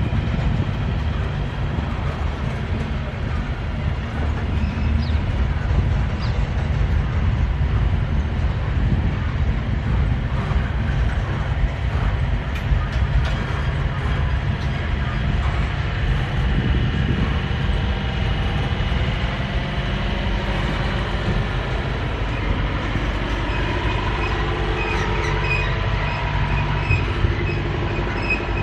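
Freight train rolling past, a steady heavy rumble of steel wheels on rail, with thin wheel squeals in the last few seconds.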